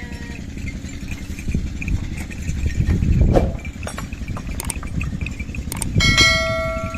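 Steady low rumble, with a swelling sound about three seconds in. Near the end a lamb gives one bleat lasting about a second and a half.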